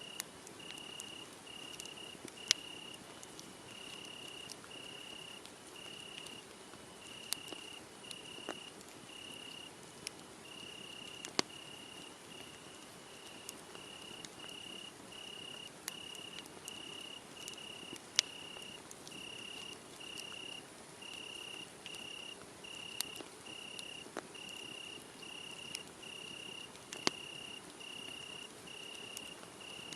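Crickets chirping in a steady, even rhythm, about one and a half chirps a second, with a fainter, higher second cricket joining about two-thirds of the way in. A wood fire crackles underneath, with a few sharp louder pops.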